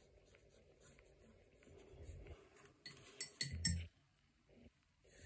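A paintbrush clinking against a painting pot: three or four quick, sharp clinks about three seconds in, after faint quiet handling.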